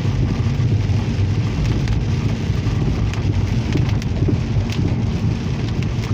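Heavy rain beating on a moving car, heard from inside the cabin, over the car's steady low road rumble, with scattered faint raindrop ticks.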